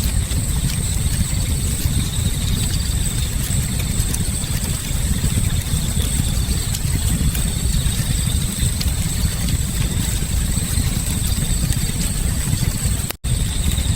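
Bonfire burning, with faint scattered crackles over a steady low rumble and a steady high-pitched whine. The sound cuts out for an instant near the end.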